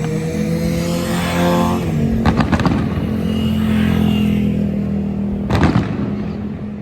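Fireworks bursting, with two sharp bangs about two seconds in and another near the end, over steady sustained music tones that change chord about two seconds in.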